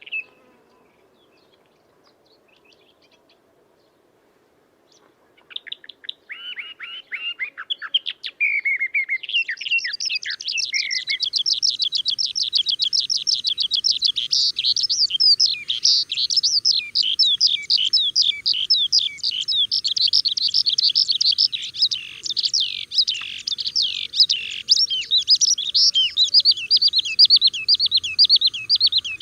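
Songbirds singing: after a few seconds of near quiet, quick chirps and trills begin about five seconds in. By about ten seconds they build into a dense, continuous run of rapid high chirps.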